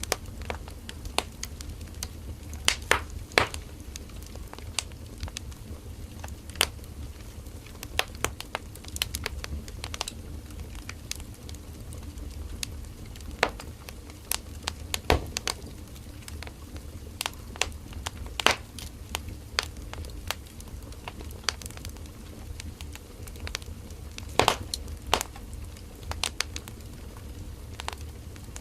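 Firewood burning in a campfire: irregular sharp crackles and pops, some louder snaps in quick pairs, over a steady low rumble of the fire.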